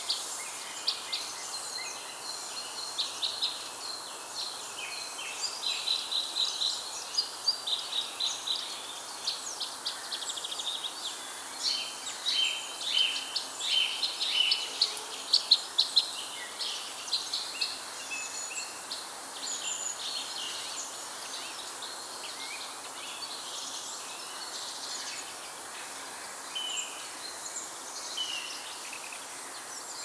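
Songbirds chirping and twittering in many short, quick calls over a steady background hiss. The calls are thickest in the first half and thin out later.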